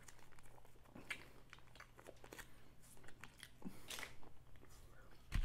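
A person chewing a mouthful of fast food close to the microphone, faint, with soft irregular crunches and mouth clicks.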